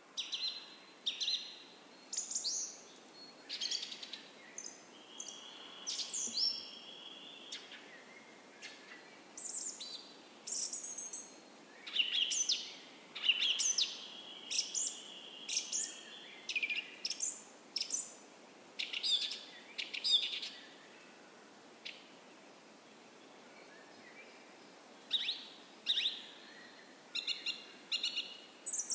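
Several songbirds singing: a busy run of short chirps and whistles, with a held whistle at about six seconds and again around thirteen to fifteen seconds.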